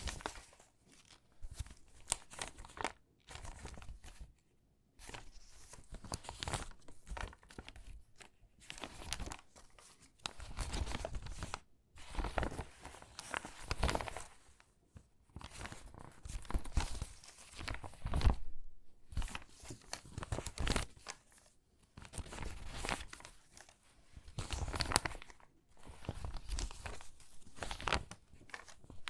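Crinkly, water-damaged magazine pages being handled and sorted by hand, crackling and rustling in irregular bursts with short pauses between them.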